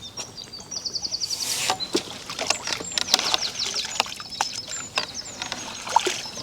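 A small songbird singing: a quick high trill of about ten notes about a second in, then a run of sharp, high chirps. Scattered clicks and knocks sound alongside.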